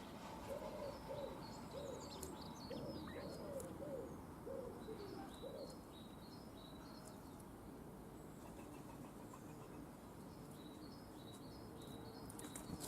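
Faint garden birdsong: a low cooing call of about eight short notes in the first half, with high chirping phrases from a small songbird coming and going in three groups over it.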